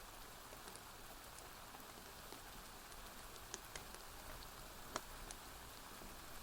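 Faint, steady rainfall hiss with a few sharp crackles from a wood fire, the loudest about five seconds in.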